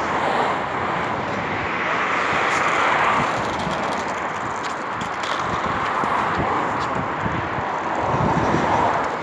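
Steady noise of road traffic, swelling and easing several times as vehicles pass.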